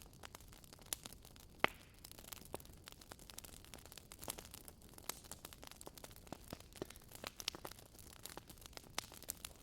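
Wood fire crackling in a fireplace: a soft hiss with irregular sharp pops and snaps, the loudest pop about one and a half seconds in.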